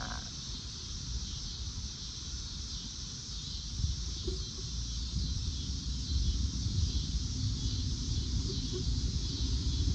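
Cicadas droning in a steady high-pitched chorus, with a low rumble underneath that grows a little louder about halfway through.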